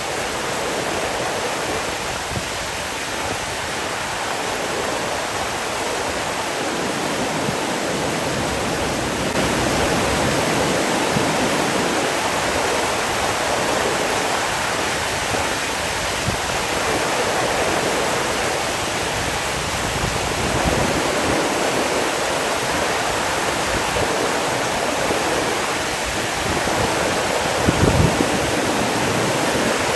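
Rushing water running steadily as an even hiss, with a brief louder low surge near the end.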